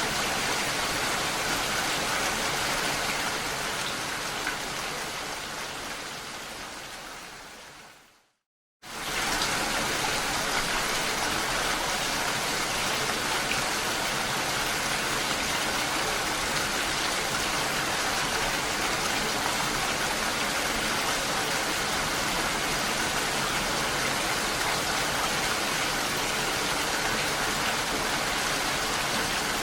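Steady hiss of rain and falling water. It fades out over about four seconds, drops to silence for half a second, then comes back in suddenly at full level and runs evenly.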